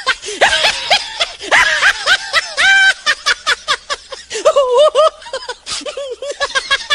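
Rapid, high-pitched cackling laughter: quick runs of short rising-and-falling notes, nearly continuous, with a short lull around four seconds in.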